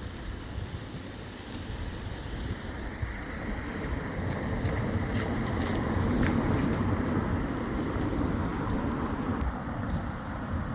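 Road traffic on a wet road: a vehicle's engine and tyre hiss on wet tarmac swell to their loudest about six to eight seconds in, then ease off.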